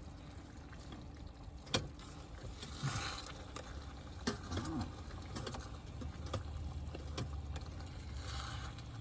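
Light clicks and knocks from a rice cooker and its utensils being handled, over a low steady rumble.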